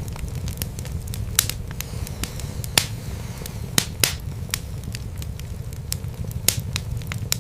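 Wood fire in a fireplace crackling, with irregular sharp pops and snaps, a few of them loud, over a steady low rumble of the burning logs.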